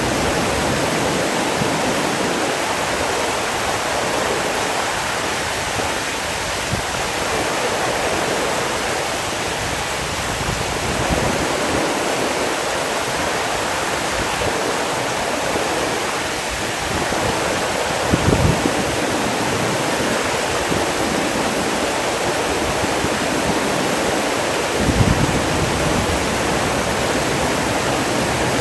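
Steady rushing water, with two brief louder surges about two-thirds of the way through and near the end.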